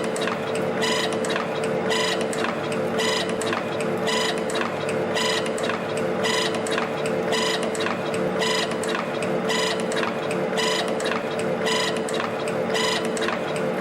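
A CNC torsion spring forming machine runs steadily, winding 0.6 mm wire into torsion springs. Over a constant machine hum, a short metallic ping rings out about once a second, with lighter clicks in between.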